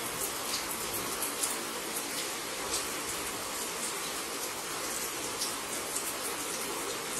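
Steady rain falling, with scattered close drips ticking through it.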